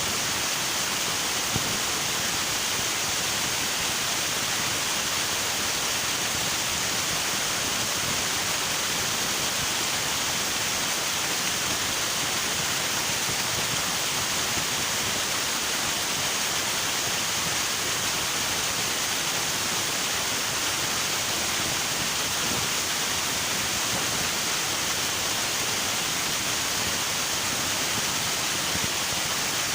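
River water rushing in a steady, unbroken hiss of flowing water.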